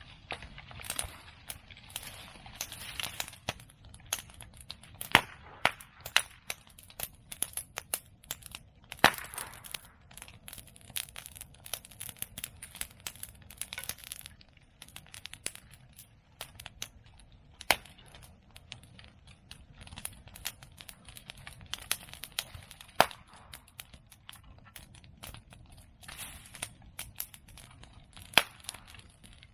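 Open burn pile of cut medake bamboo and chestnut prunings crackling steadily, a dense run of small snaps, with a handful of sharp, much louder pops scattered through it.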